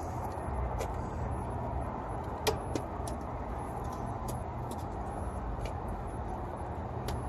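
Steady low rumble with a few light clicks, one sharper click about two and a half seconds in.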